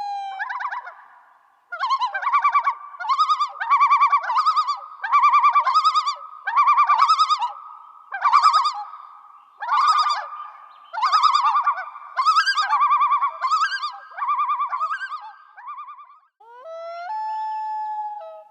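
An animal calling over and over: about a dozen short bursts of rapid, rippling pitched notes in a loose rhythm, ending about 16 seconds in.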